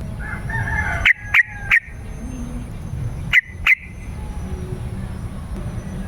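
Yellow-vented bulbul calling: a short warbling phrase, then three loud, sharp notes in quick succession, and two more a couple of seconds later.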